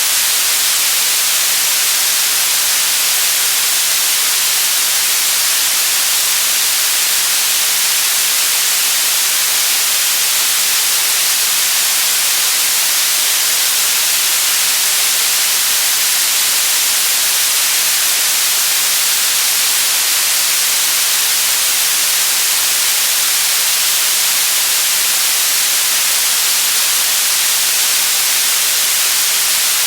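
Steady generated white noise: an unbroken, even hiss, brightest in the treble, that does not change.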